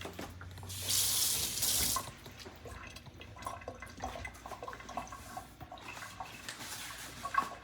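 Kitchen tap running for about a second and a half, starting just under a second in, as fresh curry leaves are rinsed under it; after it shuts off, light rustling and small clicks of the wet leaves being handled.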